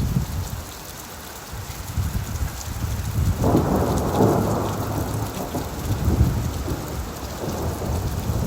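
Steady rain falling, with a low rumble of thunder that swells suddenly about three and a half seconds in and dies away over the following few seconds.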